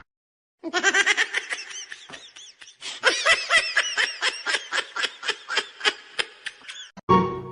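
A person laughing hard in a fast run of high-pitched bursts, several a second, growing louder partway through and cut off shortly before the end.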